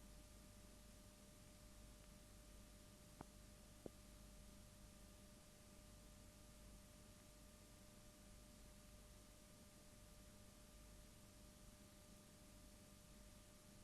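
Near silence: faint steady hiss and hum of the recording, with two tiny clicks about three and four seconds in.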